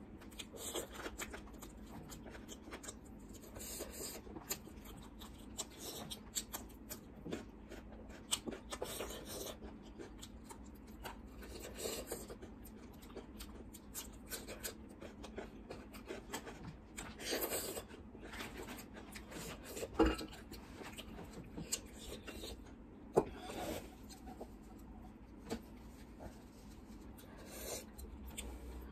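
Close-up eating sounds: chewing and wet smacking of the mouth on chicken drumstick meat, with many small clicks and a couple of sharper clicks about two-thirds of the way through.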